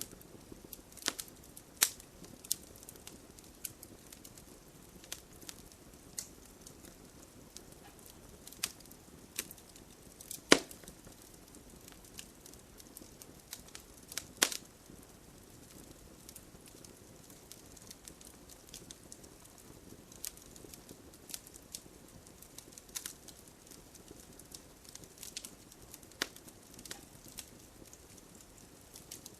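Wood campfire crackling: a low steady hiss of burning with scattered sharp pops and snaps, two of them loud, about ten and fourteen seconds in.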